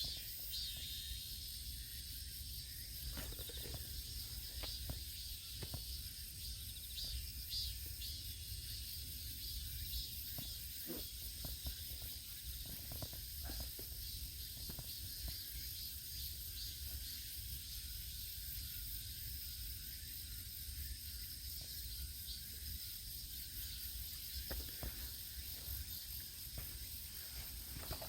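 Insects, crickets or similar, chirping and trilling steadily in high-pitched overlapping layers, over a low steady rumble.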